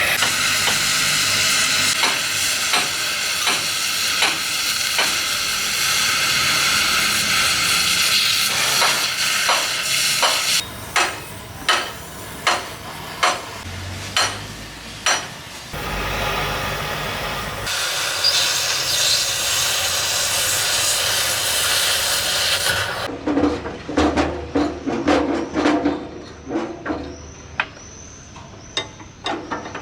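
Gas cutting torch hissing steadily, then a series of sharp knocks on metal about one a second. The torch hisses again before a quick clatter of knocks near the end.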